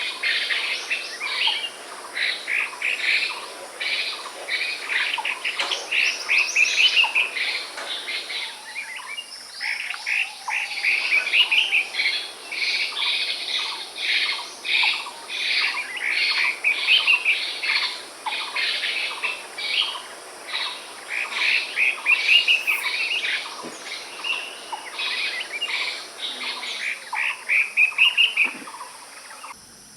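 A songbird singing without pause in quick, repeated phrases of chirping notes.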